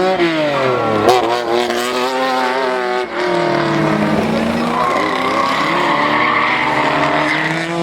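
Historic rally car engine revving hard, its pitch climbing and falling back through repeated gear changes, with a sharp crack about a second in. From about five seconds a higher squealing tone runs over the engine.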